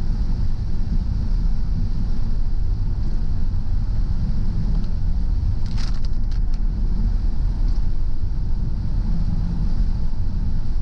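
Car driving on a rain-wet road: a steady low rumble of road and engine noise with a steady hiss over it, and a few short clicks about six seconds in.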